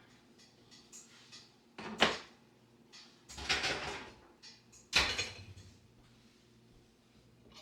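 Household handling sounds: a sharp knock about two seconds in, a longer rattling clatter a second later, and another sharp knock about halfway through, with a faint low hum underneath.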